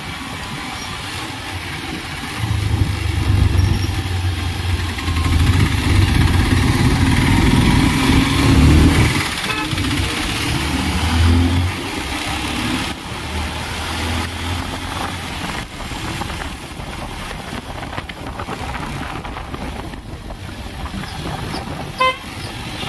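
Motor vehicle engine running, growing louder about two seconds in and easing off after about twelve seconds, with a brief high beep near the end.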